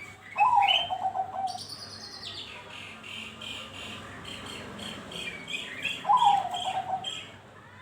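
Zebra doves (perkutut) calling: a rolling, falling coo near the start and a second one about six seconds later. Between the coos, higher chirping notes repeat at about three a second.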